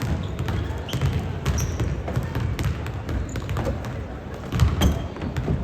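A basketball bouncing on a gym floor as players dribble, a run of dull thumps at an uneven pace, with a few short high squeaks.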